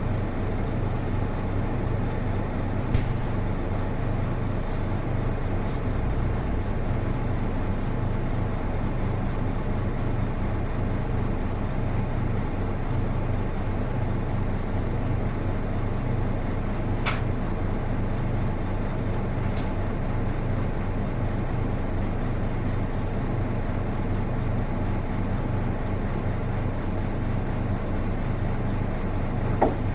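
Nissan Diesel Space Runner RA bus's diesel engine idling steadily, heard inside the passenger cabin, with a few faint clicks and rattles. Its engine note is one the recordist finds unlike that of other buses of this type.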